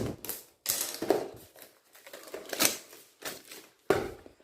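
A speed-cube box being worked open by hand: a series of sharp scrapes, rustles and clicks of the packaging.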